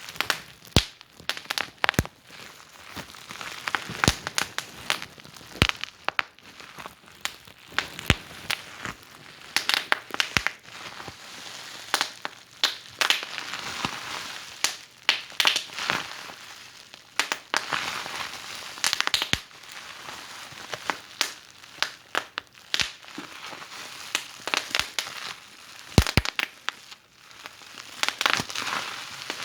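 Wood fire in a fireplace crackling, with frequent sharp pops and snaps over a soft hiss, some snaps louder than the rest.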